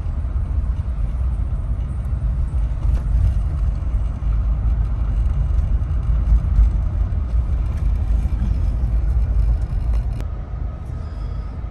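Steady low rumble of a motor vehicle on the move, with a sharp click about ten seconds in, after which the rumble eases.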